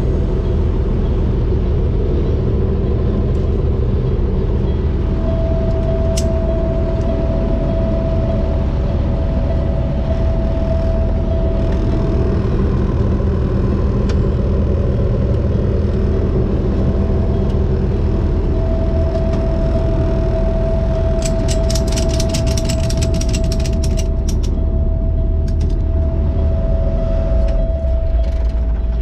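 Heavy truck's diesel engine running steadily with a low drone and a whining tone that comes and goes. A run of rapid sharp clicks comes about three quarters of the way through.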